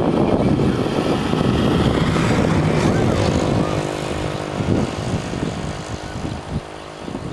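A motor engine running loudly, then fading away with a steady humming tone as it moves off.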